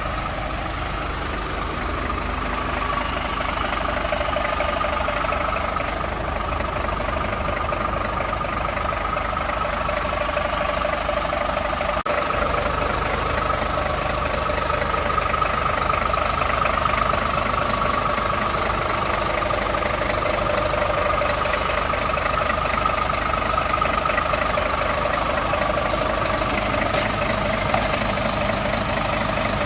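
Scania S500 tractor unit's 13-litre straight-six diesel idling steadily, a little louder after about twelve seconds.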